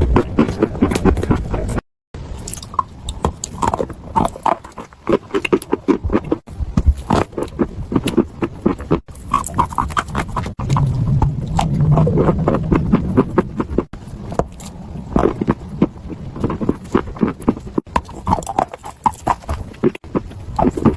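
Close-miked chewing and crunching of chalk: a rapid, dense run of crisp crunches and snaps as teeth break and grind the sticks, spliced from several clips with abrupt cuts. A low hum is heard about halfway through.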